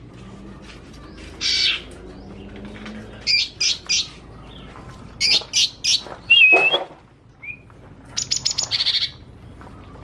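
Caged green leafbird (cucak ijo) singing in short bursts of quick high chirps, about five phrases, with a fast run of rapid notes near the end.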